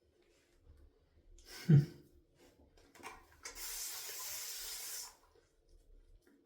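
A single dull thump, then about a second and a half of steady hiss of running water while water is being added to shaving lather.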